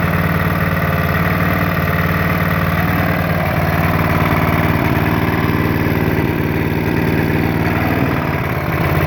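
Clarke Power CPB1200 portable generator's petrol engine running steadily and smoothly, dipping slightly in loudness near the end.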